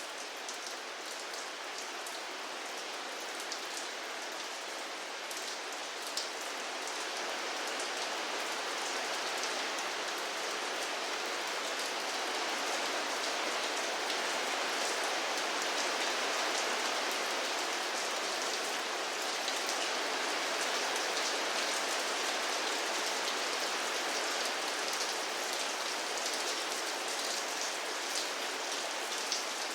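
Steady rain falling on a surface, an even hiss of many drops with occasional sharper single drop ticks. It grows slightly heavier after several seconds.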